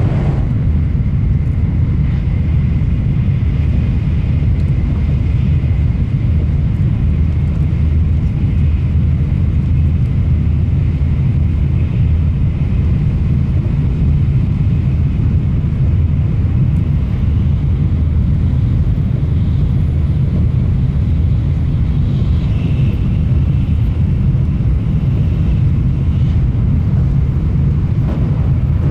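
Shinkansen high-speed train running at speed, heard from inside the passenger car: a steady, loud low rumble with a faint high whine above it.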